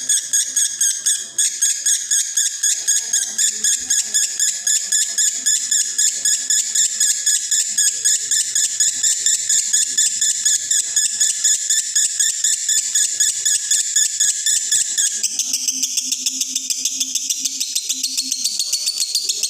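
Male lovebird in breeding condition singing a long unbroken 'konslet' song: a shrill, rapid chattering trill of about six notes a second. The lower notes drop away about three quarters of the way through while the higher chatter carries on.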